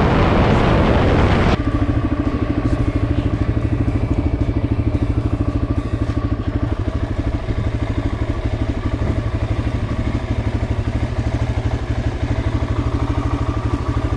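Suzuki DR-Z400S single-cylinder four-stroke engine running at a steady speed under way, with a fast, even pulsing beat. It opens with a loud rushing noise that cuts off about a second and a half in.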